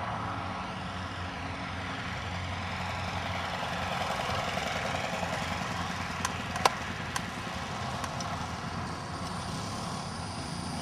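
Motor of a radio-controlled J3 Cub model plane running steadily, with a few sharp clicks a little past the middle.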